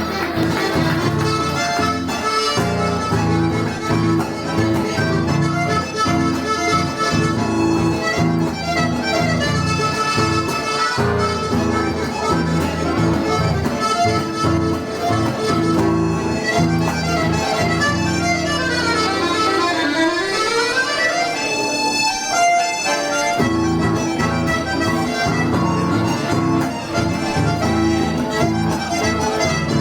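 Gaita ponto (diatonic button accordion) playing a traditional gaúcho tune with melody over bass. Past two-thirds of the way through, a run goes down and back up while the bass drops out for a few seconds, then the bass comes back in.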